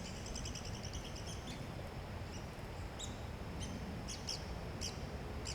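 Birds calling: a quick run of short high chips in the first second and a half, then scattered single high chirps, over a steady low background rumble.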